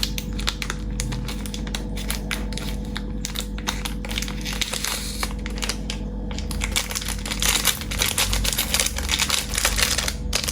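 Dense, irregular crinkling and clicking of handling noise as vintage Zippo lighters are picked up and turned over, busier in the last few seconds, over a steady low hum.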